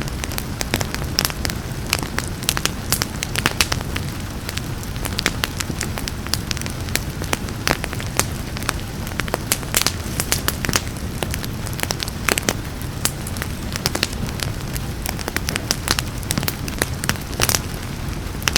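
Wood fire crackling and popping with frequent sharp snaps, over a steady hiss and low rumble of flames, with rain mixed in underneath.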